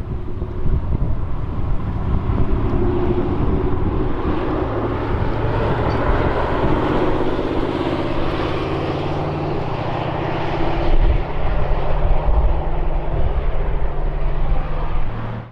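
Bugatti hypercar's W16 engine running loud and steady, its engine tones drifting slowly up and down in pitch over a low rumble. It cuts off abruptly at the very end.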